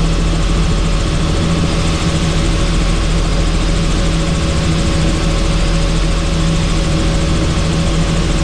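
Helicopter in flight, heard from on board: steady, unchanging engine and rotor noise with a constant low hum.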